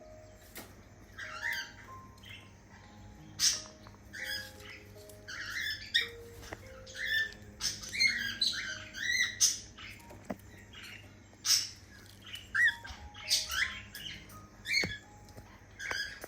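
Cockatiels chirping and squawking in many short, quick calls, some sharp, with soft background music of held notes underneath.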